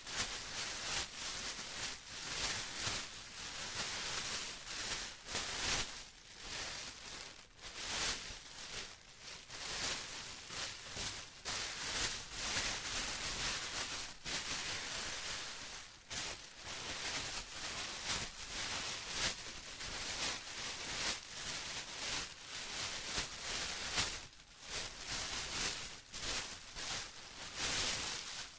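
Plastic being crumpled and rustled by hand, a steady irregular crinkling that surges and eases every second or so.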